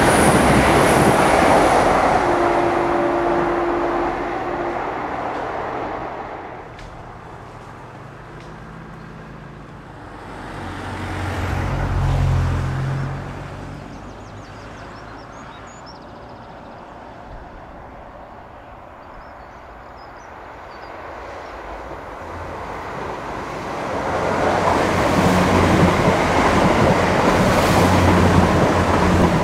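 Irish Rail 22000 class InterCity Railcar diesel multiple units passing close by with engine drone and wheel noise. One set is going away at the start and fades over about six seconds, there is a brief swell of train sound around twelve seconds in, and a second set grows loud from about 23 seconds and passes with a steady engine drone.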